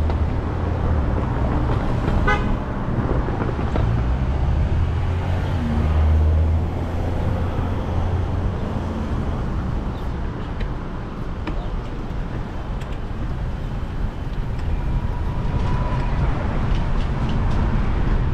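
City street traffic heard from a moving bicycle, with a low rumble of wind on the microphone. A brief vehicle horn toot sounds about two seconds in.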